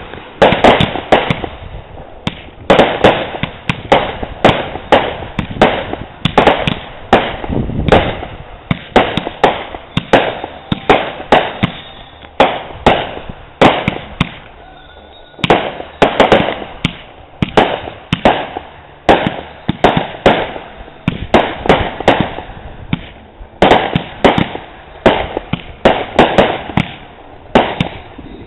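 Consumer fireworks going off in a rapid, continuous barrage of sharp bangs, several a second, with a short lull about halfway through.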